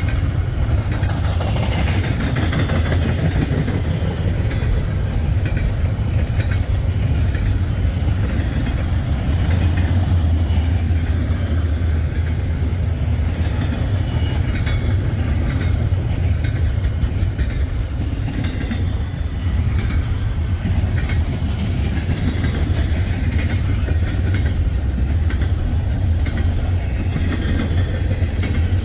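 Freight train cars rolling past in a steady rumble, with clicks of the wheels over the rail joints.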